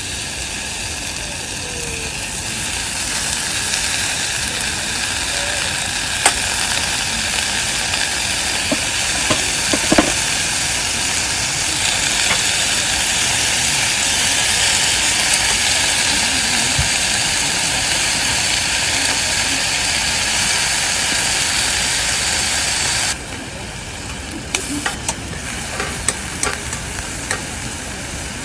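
Food sizzling as it fries in a pan, a steady hiss that builds slowly, with a few sharp clinks of a utensil. About 23 seconds in the sizzle drops suddenly to a quieter hiss with more frequent clinks.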